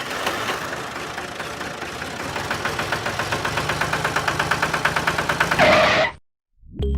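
Small engine running with a fast, even beat that quickens and grows louder, then cuts off abruptly about six seconds in.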